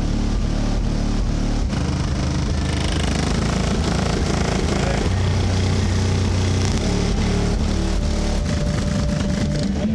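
Car audio system's subwoofers playing a loud bass demo, deep bass notes held for a second or two before stepping to another pitch.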